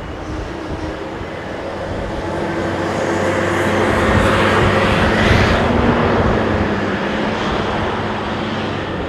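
Airbus A350-900's Rolls-Royce Trent XWB jet engines passing on landing approach, swelling to a peak about five seconds in and then fading, with a steady low hum and a higher whine near the peak. Gusty wind rumbles on the microphone underneath.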